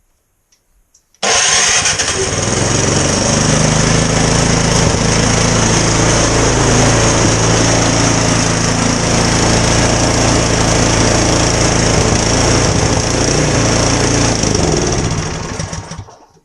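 Troy-Bilt Storm 2620 snowblower's small single-cylinder engine running loud and steady. It comes in abruptly about a second in and fades out near the end.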